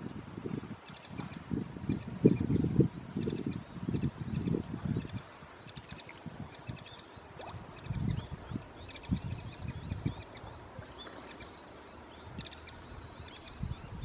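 Small birds chirping in quick runs of short, high notes, repeating every second or so, over bursts of low rumble that are strongest in the first five seconds.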